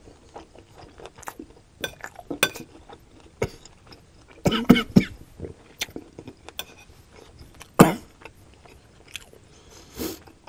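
Close-miked mouth sounds of a person chewing a vegetable stir fry, wet smacks and crunches, with a few louder ones about halfway through and again later. A metal spoon scrapes and clinks on a ceramic plate between bites.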